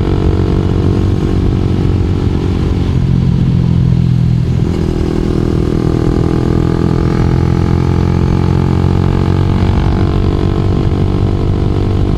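2012 Honda CBR250R's single-cylinder engine running steadily while riding, its note shifting once about four and a half seconds in.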